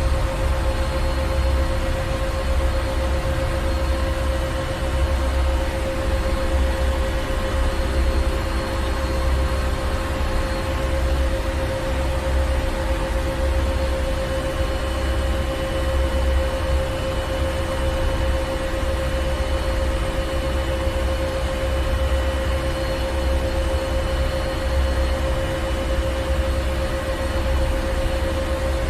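Ship engine room: heavy marine machinery running steadily, with a deep rumble, a constant hum and a broad hiss.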